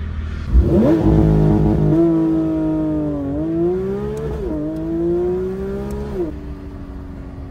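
Porsche 911 GT3 RS's naturally aspirated flat-six under hard acceleration, heard from inside the cabin. About half a second in, the engine note jumps up and climbs. It dips and rises again twice as it changes up, then drops away near the end as the throttle is lifted.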